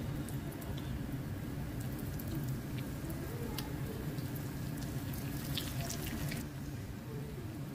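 Bread pakoras deep-frying in hot oil: a sizzle full of sharp crackles and pops as oil is spooned over them. The crackling stops about six and a half seconds in, leaving a steady low hum.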